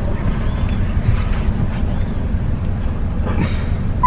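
Car engine idling, heard from inside the cabin with the window down: a steady low rumble.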